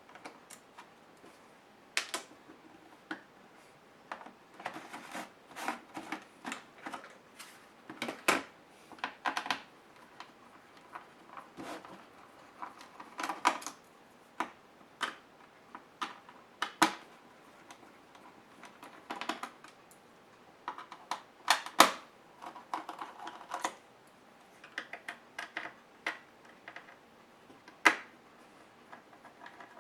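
Irregular plastic clicks and taps as a Compaq HP 6720S laptop is taken apart by hand, with short flurries of small clicks and a few sharper knocks.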